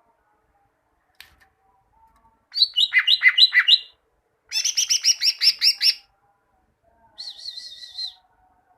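Greater green leafbird (cucak ijo) singing three phrases of fast, high, repeated chirping notes with short pauses between them, the last phrase more warbling.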